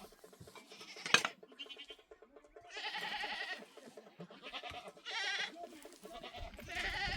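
Goats bleating several times, wavering calls with the longest about three seconds in. A single sharp knock about a second in, and a low rumble near the end.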